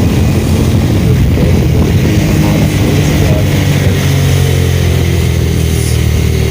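Motorcycle engine running steadily while riding, with noise on the microphone.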